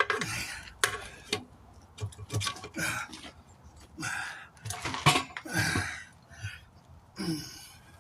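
Metal tire tools clanking, clicking and scraping against a truck wheel rim as a tire bead is pried off by hand, in a run of irregular knocks. Grunts and hard breaths of effort come in between.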